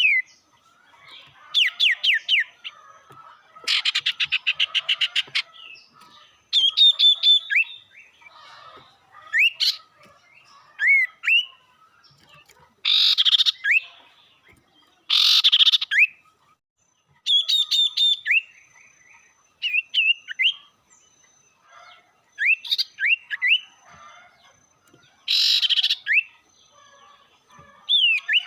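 Sirtu songbird calling in an agitated, aggressive way. Short phrases of fast stuttering notes alternate with quick sweeping whistles every second or two, the kind of challenge call used to rile a rival bird.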